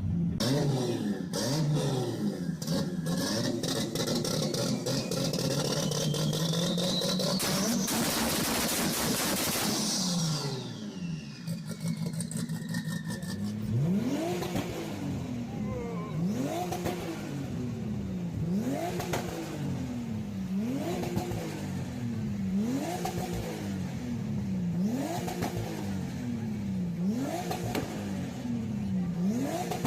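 Toyota Supra MK4's inline-six engine pulling hard, its pitch climbing for several seconds with a high turbo whistle rising above it, then a loud rush of noise and the pitch falling away. About halfway through, it is revved again and again, the pitch shooting up and dropping back about every two seconds.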